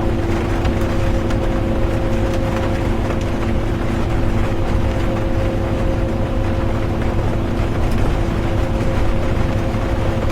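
Interior of a bus on the move: steady engine and road rumble with a constant humming drone, under a soft hiss of rain.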